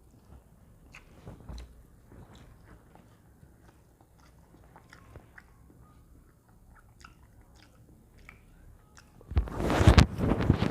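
A person eating a meal off a banana leaf: faint clicks and smacks of chewing and handling food, then a loud burst of crunching and crackling about nine seconds in.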